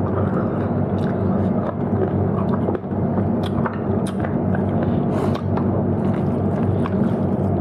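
Close-up eating sounds of a person chewing food, with scattered wet clicks and smacks, over a steady low hum.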